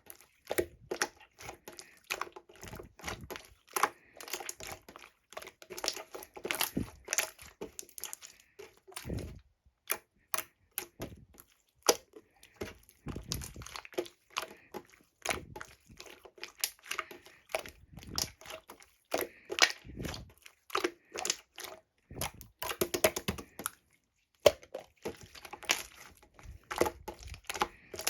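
Clear water-jelly slime squished and pressed by hand, giving dense, irregular wet crackles and small popping clicks, with brief pauses. Heavy breathing on the microphone is heard now and then as low puffs.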